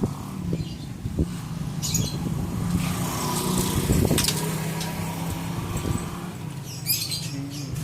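A motor engine running steadily, with scattered light clicks and a short burst of high rustling near the end.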